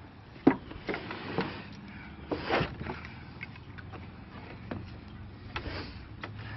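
Wooden knocks and scraping as a heavy engine on 2x4 boards is turned and shifted on a dock. A sharp knock about half a second in is the loudest, with a longer scrape around two and a half seconds in. A low steady hum runs underneath.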